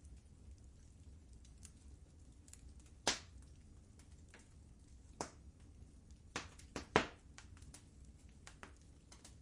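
Wood fire crackling in a fireplace: a low steady rumble of burning, with sharp pops and snaps scattered through it. The loudest pops come about three seconds in and in a quick cluster around seven seconds.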